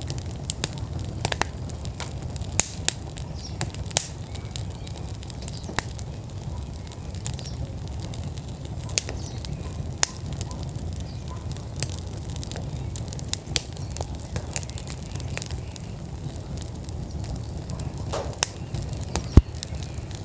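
Wood fire burning in an outdoor fire pit, crackling with irregular sharp pops over a steady low rumble; the loudest pop comes near the end.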